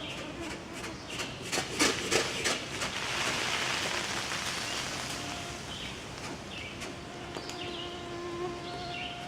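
Mosquitoes whining close to the microphone with a thin steady hum, while forest birds give short chirps in the background. A few sharp knocks and a rustle, handling noise, come about two seconds in.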